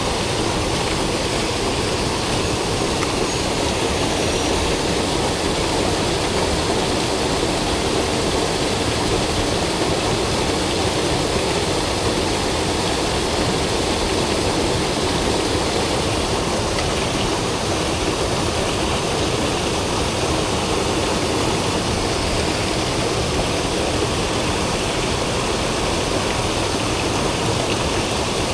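Mountain stream water rushing steadily, a constant even roar with no breaks.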